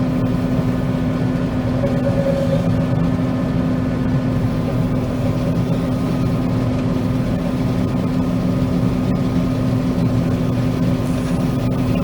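John Deere 9500 combine running steadily while harvesting soybeans: an even engine and machinery drone with a constant hum.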